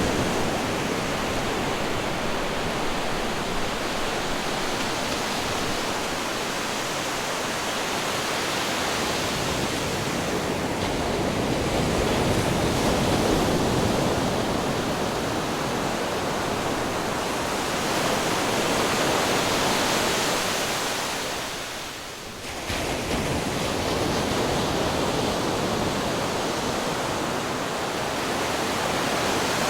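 Ocean waves breaking on rocks: a continuous rush of surf that swells and eases slowly, with a short dip about three-quarters of the way through before it returns abruptly.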